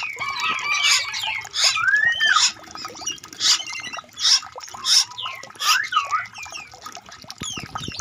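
Several birds calling over one another: short sharp chirps repeating every half second or so, mixed with whistled notes, one of them rising and then falling about two seconds in.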